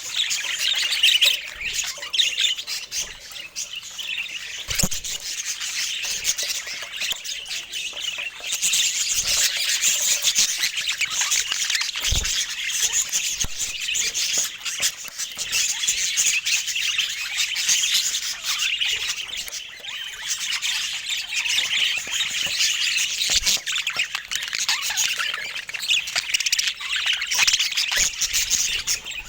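Budgerigars chattering and warbling without pause, many short high chirps overlapping.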